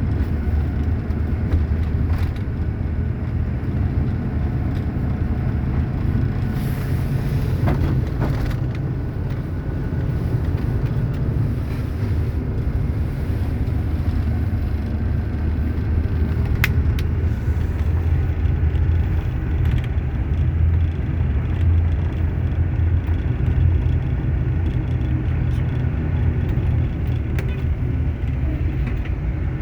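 Truck engine running with a steady low rumble, with a few faint clicks.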